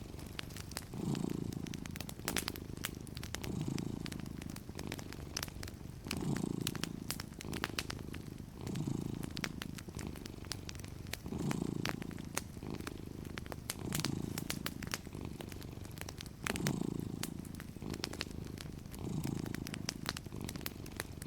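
A cat purring steadily, the purr swelling and easing with each breath about every two and a half seconds. Wood fire crackling underneath with frequent sharp pops.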